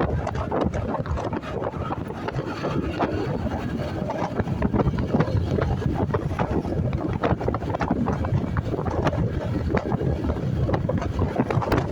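Wind buffeting the microphone over the engine and road noise of a motorcycle being ridden: a steady din with no let-up.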